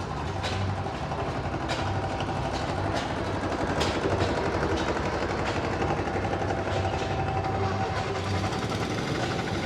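An antique engine running steadily, with a fast, even mechanical clatter over a low pulsing hum.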